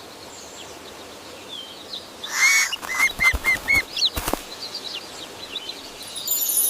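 Bird wings flapping and small birds chirping, with a quick run of four or five short arched calls about halfway through.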